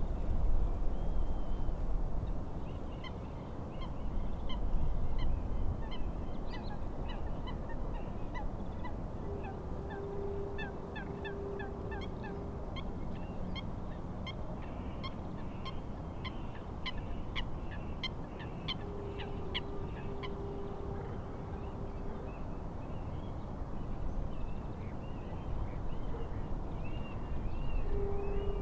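Small birds singing in quick chirps over a steady rush of wind and waves. A long, steady, level tone sounds twice, about three seconds each time, and starts again right at the end.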